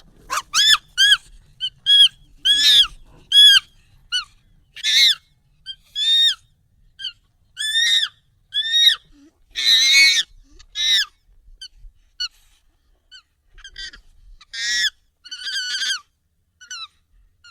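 Monkey calls, sped up and pitched high: a quick series of short calls, each arching up and then down in pitch, with a longer, harsher call near the middle and another cluster of longer calls near the end.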